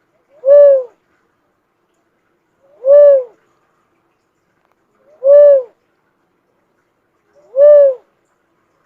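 Repeated hooting call of a bird known in Bicol as the kobawon: four single hoots about two and a half seconds apart, each a short note that swells and falls slightly in pitch, with a faint brief note just before it.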